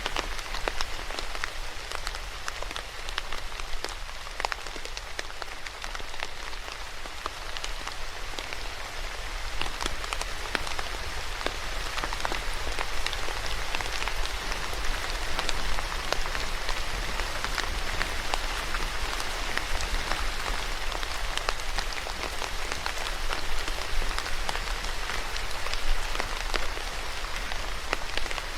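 Steady rain falling on a surface, a continuous hiss with many separate drops ticking through it.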